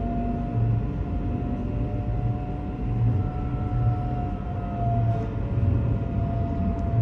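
A train running, with a steady whine and a low, throbbing rumble.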